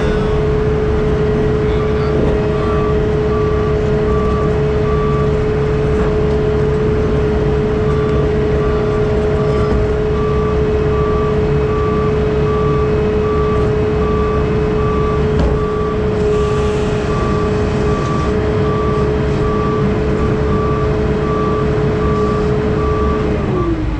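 Heavy equipment running with a steady whine over a low engine rumble, while a backup alarm beeps in a steady repeated pattern with a pause of a couple of seconds. Near the end the whine drops in pitch as the engine comes down.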